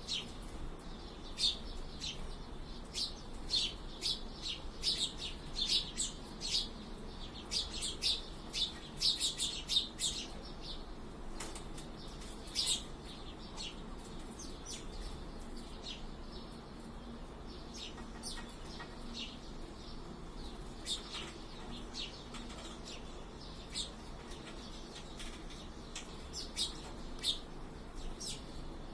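Sparrows squabbling with many short, sharp chirps, coming thick and fast for the first ten seconds or so, then more scattered.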